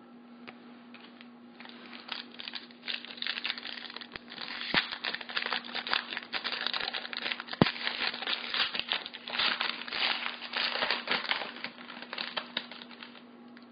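Foil wrapper of a trading-card pack being torn open and crinkled, a dense crackling rustle for about ten seconds with a couple of sharp snaps, over a steady low hum.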